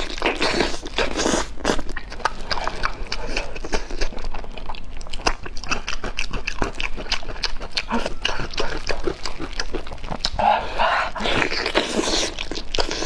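Close-miked eating of braised pork trotter: continuous chewing, lip-smacking, sucking and mouth clicks, many small smacks in quick succession.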